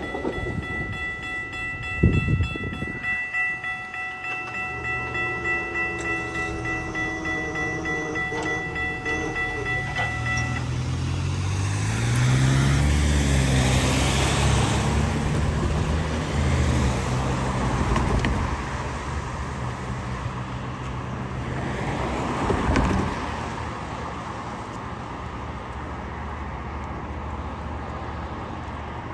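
A GO Transit diesel commuter train passing a level crossing. A steady horn tone sounds for about the first ten seconds, then the locomotive's engine rumbles past, followed by the coaches rolling by with a clickety-clack.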